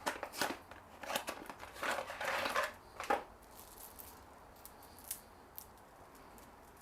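A new chainsaw chain and its packaging being handled: a run of small clicks and rustling for about three seconds, then a few faint ticks.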